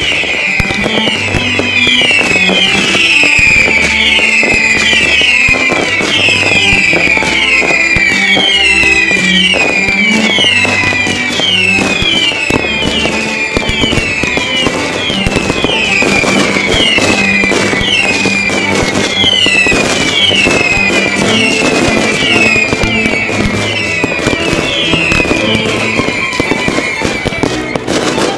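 Fireworks battery firing a rapid string of whistling shots, each whistle falling in pitch, one overlapping the next, over continuous crackling and popping.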